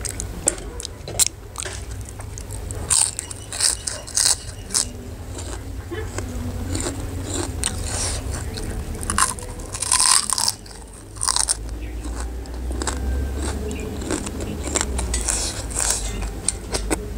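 Close-miked eating sounds: crisp crunches from biting and chewing a thin, dry chip, in several bouts of rapid crackling bites with quieter chewing in between.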